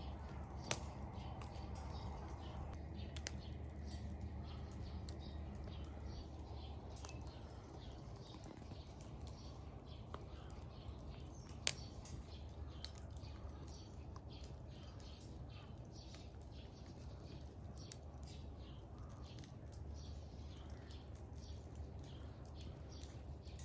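Firewood burning and crackling, with scattered small pops throughout and two sharper, louder snaps, one about a second in and one near the middle, over a low steady hum.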